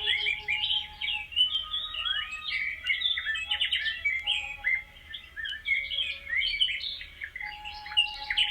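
Many birds chirping and twittering at once, their short calls overlapping in a dense, continuous chorus.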